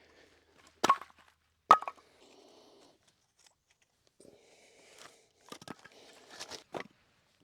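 Firewood being handled to build a campfire: two sharp knocks close together near the start, then rustling, and a quick run of knocks and crunches near the end.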